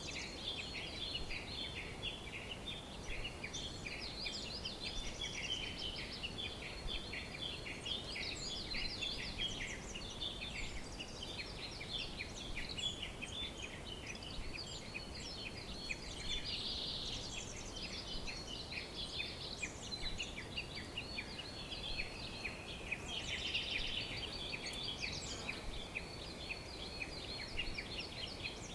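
A flock of small birds chattering together, many rapid high calls overlapping without a break.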